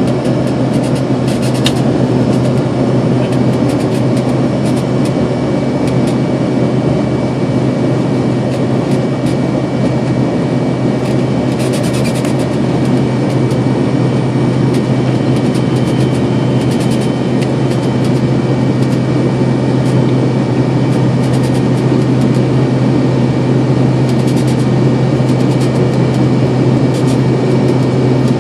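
Steady roar of a jet airliner's engines and rushing air heard inside the passenger cabin just after takeoff, with a strong low hum under it.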